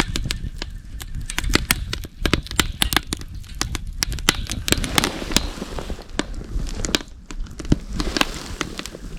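Wood campfire crackling, with many sharp irregular pops and snaps over a low rumble.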